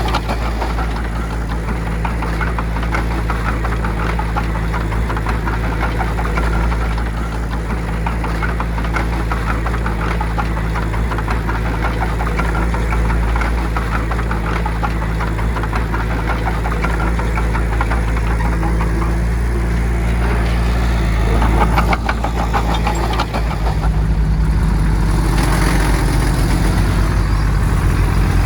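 Heavy earthmoving machine's diesel engine running under work, a steady low drone with a rapid even pulse. Near the end its note shifts and rises.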